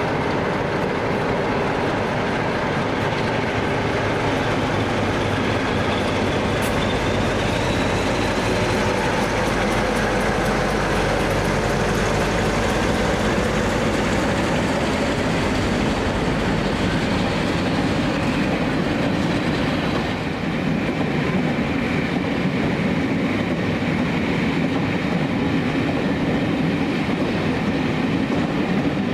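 A train running past, its wheels rolling steadily on the track.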